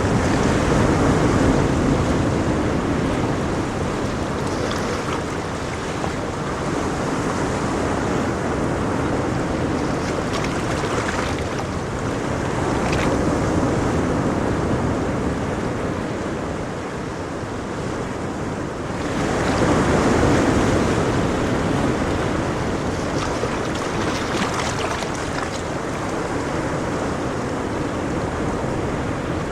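Ocean waves breaking and washing on a shore, a steady rush of surf that swells and eases over several seconds, with one bigger wave about two-thirds of the way through.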